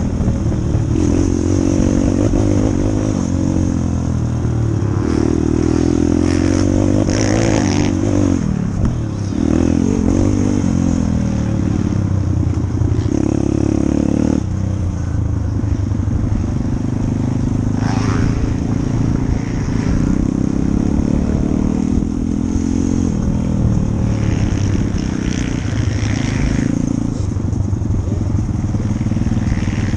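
A 140cc pit bike's single-cylinder four-stroke engine being ridden, revving up and easing off over and over, its pitch rising and falling with the throttle and gear changes.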